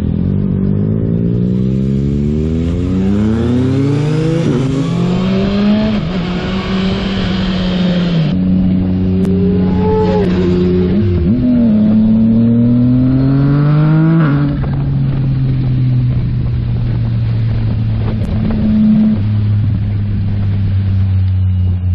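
Sport motorcycle engine accelerating hard, its pitch climbing over the first few seconds, then holding a steady cruise. It climbs again and drops suddenly about fourteen seconds in as the throttle closes or it shifts, then runs steadily again.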